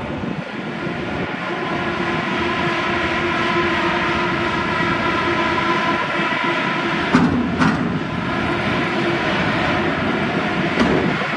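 Steady, loud whine of a power tool running, with several level tones over a noisy rumble; the uploader takes it for sanding or grinding. It covers the sound of an arriving jetfoil. A couple of sharp clicks come about seven seconds in, and another near the end.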